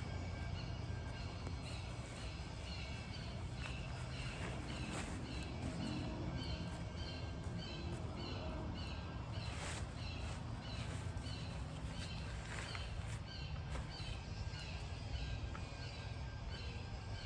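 A bird calling over and over, a short high chirp repeated about twice a second, over a steady low rumble.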